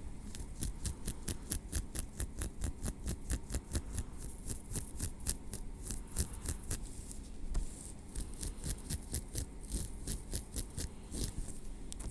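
Tweezers clicking in a quick, even run of small sharp ticks, about four or five a second, with a short pause about seven seconds in.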